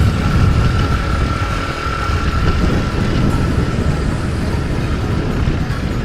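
Nitro Sky 125cc pitbike's single-cylinder four-stroke engine running steadily under way, heavily mixed with wind buffeting on the action-camera microphone.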